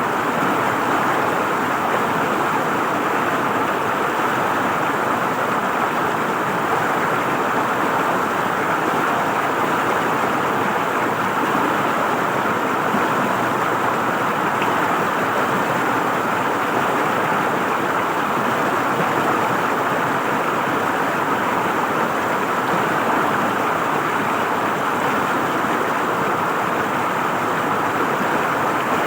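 River water flowing and gurgling over rocks, a steady rushing with no break or change.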